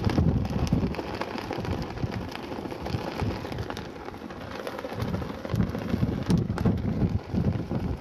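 Strong wind buffeting the camera microphone: a loud, uneven, gusting rumble.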